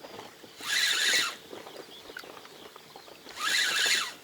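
Nautilus Arta 4000 spinning reel cranked in two short bursts, each a whirr of about a second, with a pause between: a step retrieve of a jig along the bottom.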